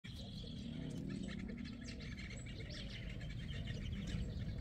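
Birds chirping outdoors: many short, quick calls overlapping throughout, over a steady low hum.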